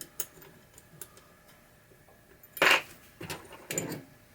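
Small metal parts clicking and clinking as screws are taken out of a pinball drop target assembly, with two louder clatters in the second half.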